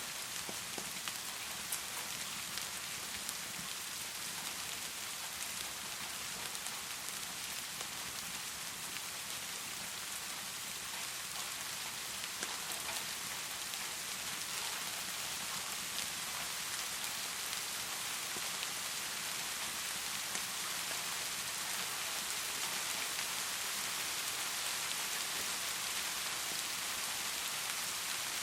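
Heavy rain falling steadily, an even hiss with scattered small ticks of drops.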